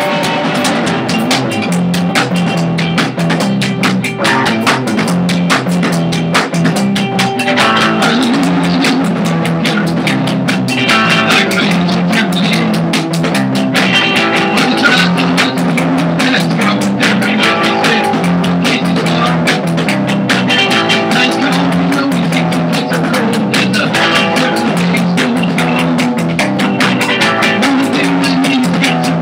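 Rock band playing an instrumental passage with drum kit and guitar, loud and continuous, without singing.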